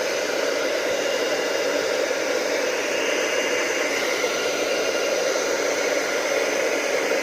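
Hot-air blower running steadily with an even blowing hiss and a faint whine, heating a loudspeaker's glue joint to soften the adhesive.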